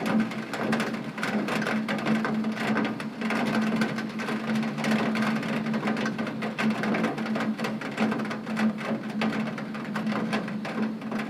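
Heavy rain beating on a window pane: a dense, steady patter of countless drops ticking on the glass, with a steady low hum underneath.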